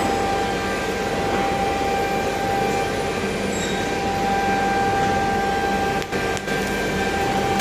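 A power tool running steadily with a constant whine, dipping briefly twice near the end.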